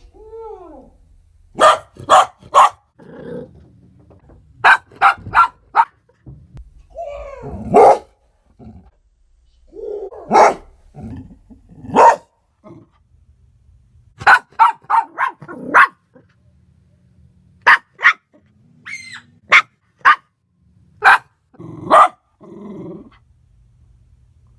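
A dog barking in repeated bursts of two to four sharp barks, with a few shorter whines between bursts, set off by knocking and yelling outside the room.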